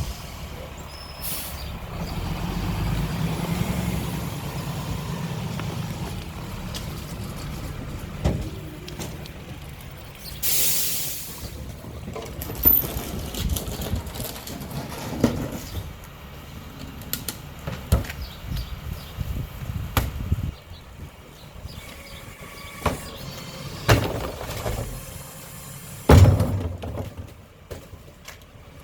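Mack LR garbage truck with a McNeilus rear-loader body running, its engine rumbling. A short air hiss comes about ten seconds in, followed by a run of sharp knocks and clanks.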